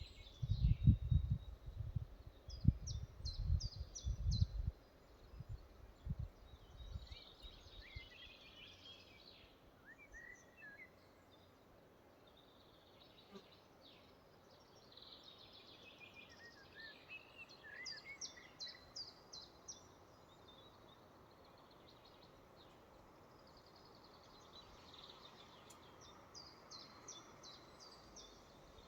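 Forest birdsong: several birds singing repeated high phrases of quick chirps and trills, coming and going. A low rumble comes and goes during the first five seconds.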